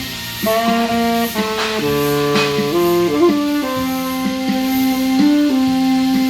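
Saxophone playing a slow melody of long held notes over a backing accompaniment.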